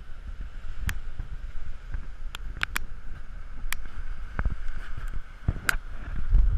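Wind rumble on a camera riding along on a bicycle, with a faint steady hum and scattered sharp clicks and rattles.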